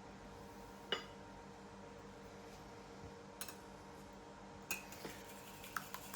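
A few short, light clinks of cutlery against a dish as butter is added to whisked eggs, the sharpest about a second in and several more near the end, over a faint steady hum.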